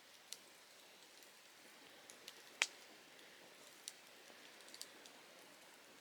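Softwood campfire crackling: scattered sharp pops and snaps from the burning conifer logs over a faint hiss, the loudest pop about two and a half seconds in.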